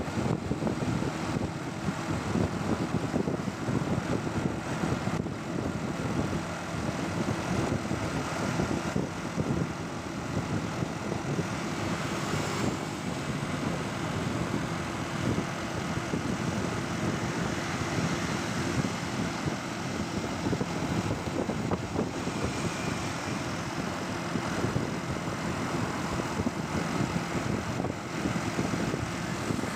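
Motorcycle engine running steadily on the move, a dense low drone with road and wind noise over it.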